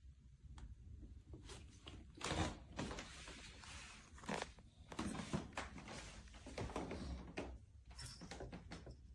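Handling noises: irregular knocks, scrapes and rustling, with the loudest knocks about two and a half and five seconds in.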